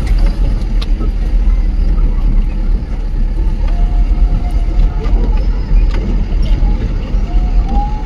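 Jeep driving: a steady, loud low rumble of engine and road noise.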